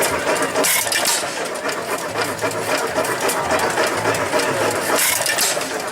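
Antique engines running with a fast, steady mechanical clatter over a low pulsing hum, with two brief bursts of hiss about a second in and near the end.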